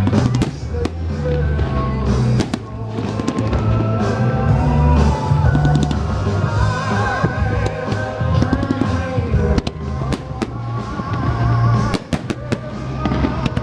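A Christmas pop song with a heavy bass beat plays loudly while fireworks bang and crackle over it. A run of sharp bangs comes near the end.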